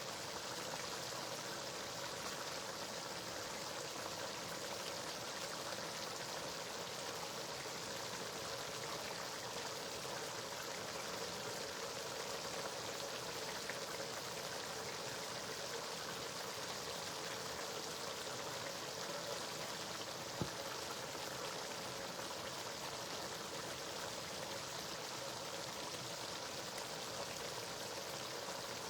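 A pot of spinach stew in red palm oil cooking on the stove, giving a steady sizzling hiss. A single short click about twenty seconds in.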